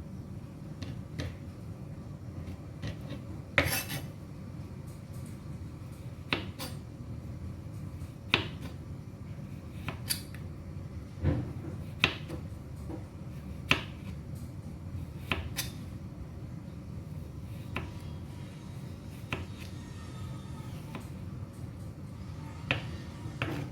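Kitchen utensils clinking and knocking against dishes and cookware: a dozen or so separate sharp clinks a second or two apart, irregular, over a steady low hum.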